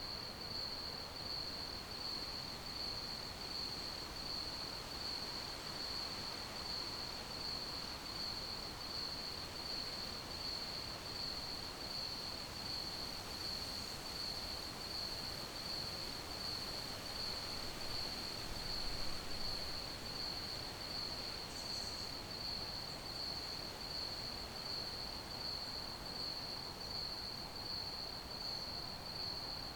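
Crickets chirping in a continuous, evenly pulsed high trill over a faint background hiss, with one soft low bump about nineteen seconds in.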